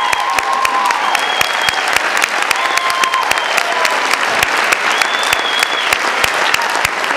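Audience applauding, with a few long, high, level calls heard over the clapping.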